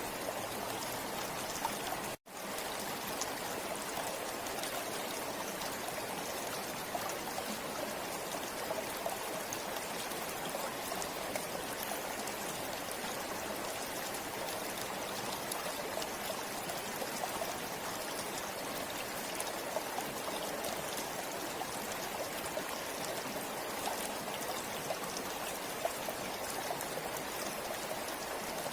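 Forest river flowing steadily, an even rush of water with fine splashes and trickles over it. The sound cuts out for an instant about two seconds in, then resumes unchanged.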